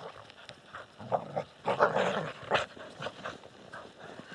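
A dog making short, irregular growls and huffs.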